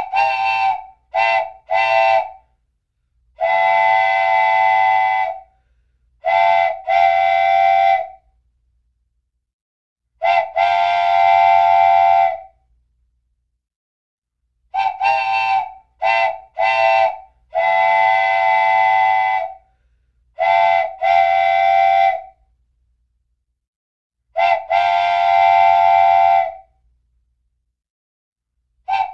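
Multi-tone musical horn playing a repeating tune: groups of three short blasts, long blasts of about two seconds and pairs of medium blasts, cycling roughly every fourteen seconds with dead silence between the notes.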